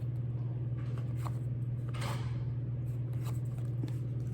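Trading cards being handled and slid off a pack stack, with soft ticks and one longer swish about two seconds in, over a steady low electrical hum that is the loudest sound throughout.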